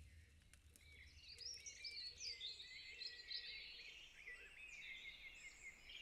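Faint birdsong: several small birds chirping and twittering in quick, high, gliding notes, starting about a second in over a low background hum.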